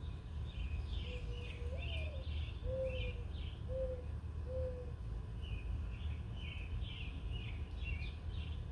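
Small wild birds chirping in two quick runs of short notes, with a lower call of four drawn-out notes in between, the first rising then falling. A steady low background rumble runs underneath.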